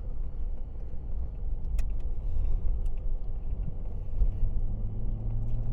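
A car driving, with a steady low road and engine rumble heard from inside the cabin; a low engine hum grows stronger towards the end, and there is a single click just under two seconds in.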